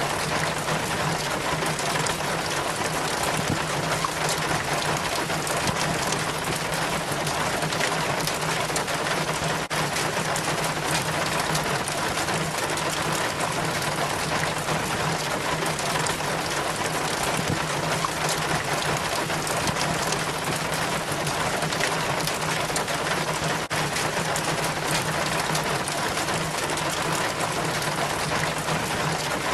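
Rainwater trickling and splashing down a rain chain from the gutter, a steady, even rush of falling water with no change throughout, over a faint steady low hum.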